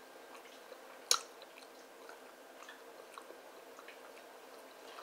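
A person chewing a mouthful of battered Korean corn dog, with faint small wet mouth clicks and one sharp click about a second in.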